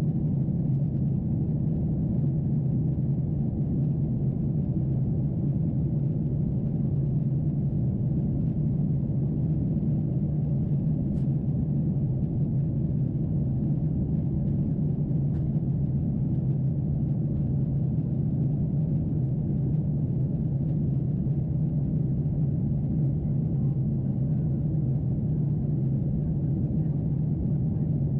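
Steady low hum of a Boeing 747-8 in flight, heard inside the cabin: the noise of its GEnx engines and the airflow, unchanging, with its weight in a deep drone.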